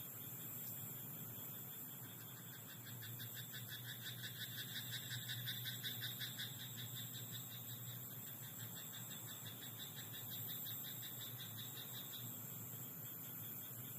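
Frogs in a rice paddy croaking in a rapid, pulsing chorus. It builds about three seconds in, is loudest around the middle and fades out near the end. A steady high-pitched insect hum runs underneath.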